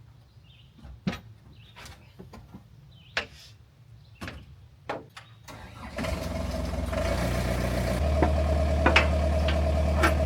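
Komatsu CK30 skid steer's diesel engine starting about six seconds in and settling into a steady idle, its pitch and level stepping up once or twice. Before the engine starts, a few scattered sharp clicks and knocks are heard.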